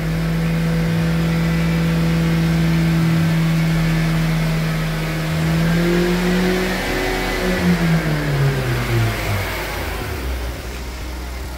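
Vauxhall Corsa Ecotec petrol engine held steadily at raised revs on a fast idle, a test run to see whether it overheats after the leaking water pump and thermostat. Around eight seconds in the revs pick up slightly, then fall away smoothly back toward idle.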